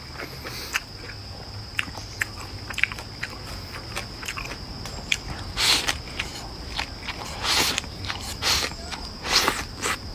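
A person eating close to the microphone: chewing and biting with many small clicks and smacks, and a few louder, longer mouth noises in the second half.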